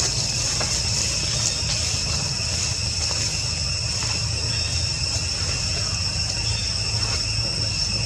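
Steady, unbroken insect chorus with two constant high-pitched tones, over a continuous low rumble.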